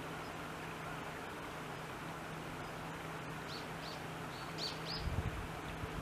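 Japanese tit giving about five short, thin, high call notes in quick succession in the second half, over a steady background hiss. Low rumbling knocks come near the end.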